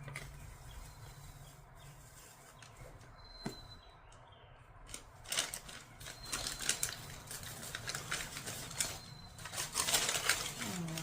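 Rustling and light clicking of parts being handled during hands-on work on a scooter: a single click about three and a half seconds in, then a busy run of rustles and taps through the second half.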